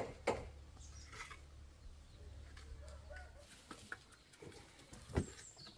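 Faint bird calls, with sharp knocks just after the start and again about five seconds in.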